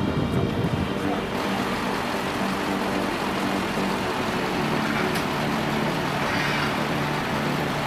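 A vehicle engine running steadily, with the even hiss of wind or road noise.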